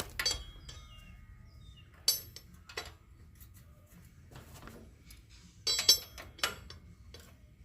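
Hand tools clinking against metal several times, each sharp metallic clink ringing briefly, with a cluster of clinks about three quarters of the way through.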